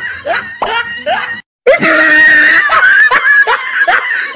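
High-pitched voices squealing and laughing in short rising cries, cut off completely for a moment about a second and a half in.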